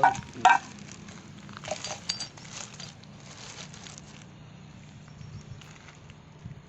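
Two sharp metallic knocks about half a second apart, then a few lighter clinks of metal tools and parts being handled on a diesel Royal Enfield Bullet engine that is being taken apart.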